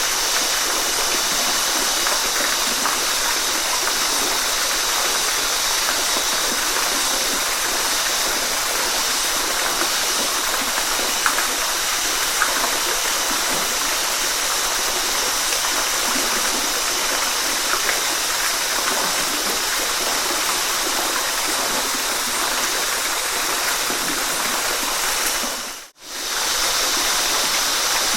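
Waterfall rushing: a steady, even roar of falling water. Near the end it fades out to silence for a moment and comes straight back in.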